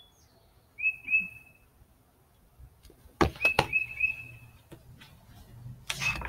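A small bird chirping in short whistled notes, two or three at a time, about a second in and again a few seconds later. A loud rustle comes near the end.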